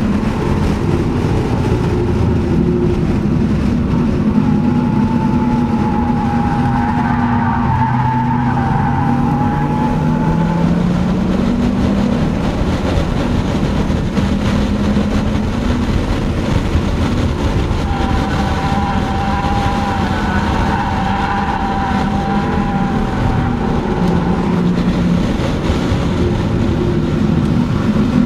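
Audi S4's engine running hard under track driving, heard from inside the cabin, its pitch rising and falling with throttle and shifts. The tires squeal through a corner about five seconds in and again from about eighteen seconds.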